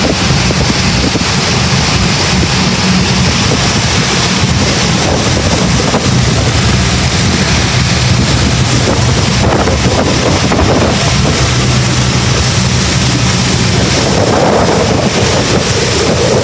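Tour boat's motor running steadily under way, a low hum under heavy wind rushing over the microphone.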